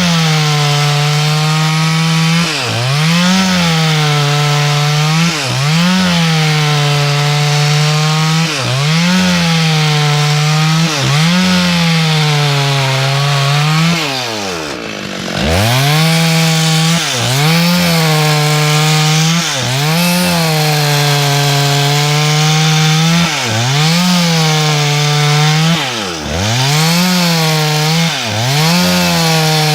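Two-stroke chainsaw running at high revs, ripping through wood to cut boards. Its pitch dips briefly and comes back up every two to three seconds, and about halfway through it drops lower and quieter for a moment before revving up again.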